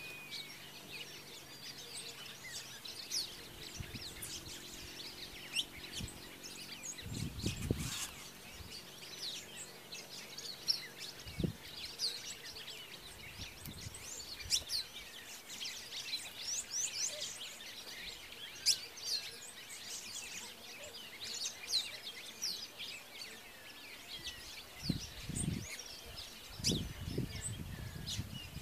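Several wild birds chirping and calling at once, a steady chorus of short, quick high-pitched notes, with a few low muffled thumps scattered through it.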